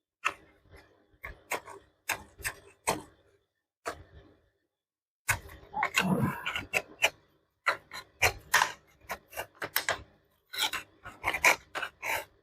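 An old gasket being scraped off a metal part by hand: a run of short, sharp scrapes and clicks at an irregular pace, with a longer, rougher stretch of scraping about five to seven seconds in.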